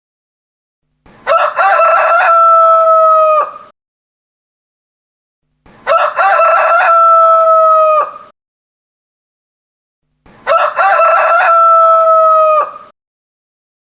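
A rooster crowing three times, each crow about two and a half seconds long, ending in a long held note that drops away at the end. Dead silence between the crows.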